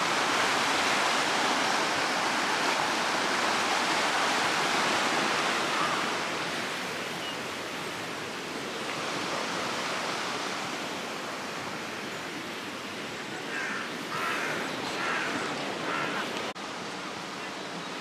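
River water rushing steadily over rocks. The sound eases somewhat after about six seconds.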